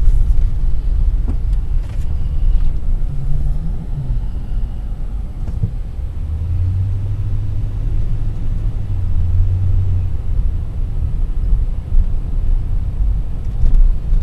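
Steady low rumble of a car being driven, engine and road noise, with a low hum that swells from about six to ten seconds in.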